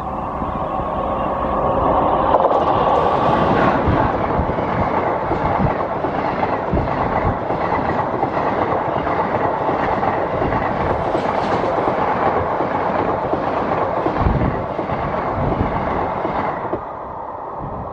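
Electric-locomotive-hauled express train approaching and passing at speed. A steady tone is heard as the locomotive nears, then the passenger coaches rumble past with wheels clicking and knocking over the rail joints. The noise drops off as the last coach passes near the end.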